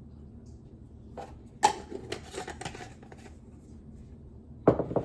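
Kitchen handling sounds while adding ingredients to bread dough: a sharp knock about a second and a half in, followed by rustling and light clicking, and another knock near the end.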